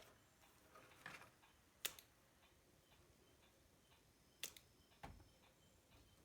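Near silence with about four faint, sharp clicks of small tools and wire leads being handled at an electronics workbench.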